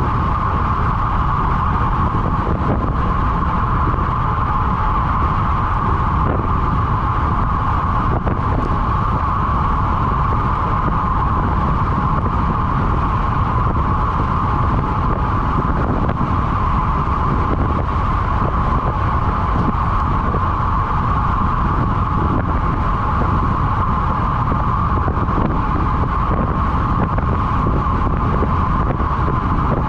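Steady wind rush over the microphone, with a constant mid-pitched hum underneath and no breaks.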